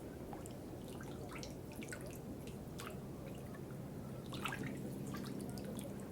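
Water dripping: irregular small drops, several a second, plinking and splashing over a steady low background hiss.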